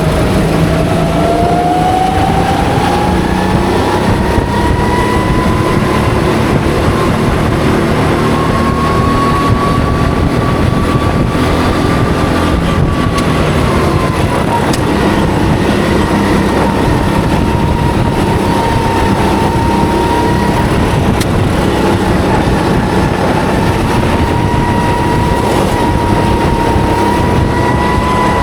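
Go-kart engine running at speed, heard from the driver's seat: a steady whine whose pitch climbs in the first few seconds, eases off in the middle and rises again near the end.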